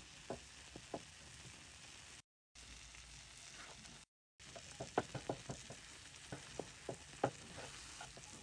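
Butter and brown sugar sizzling in a small nonstick pan as a slice of toast caramelizes, with sharp crackles and pops that come thick and loud in the second half while a spatula works the bread. The sound cuts out briefly twice.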